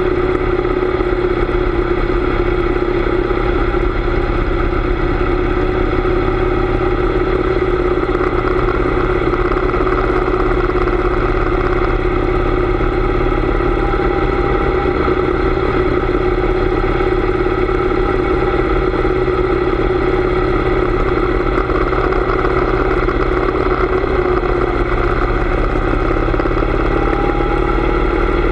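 Harley-Davidson V-twin motorcycle engine running steadily while riding, with wind rumbling on the microphone. The engine note rises slightly near the end.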